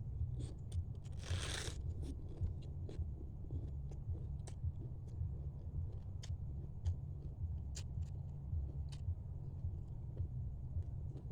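A person eating close to the microphone: crunching, with scattered sharp clicks of chewing and of crab shell being bitten. About a second in there is a longer hissing burst. A steady low hum runs underneath.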